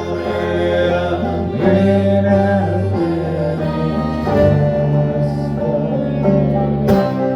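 A band playing music, with long held notes and sharp plucked attacks.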